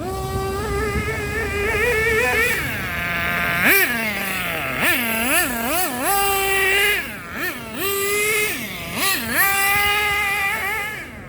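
Small two-stroke nitro engine of a radio-controlled car running at high revs, backing off and revving up again over and over, with a few quick throttle blips in the middle.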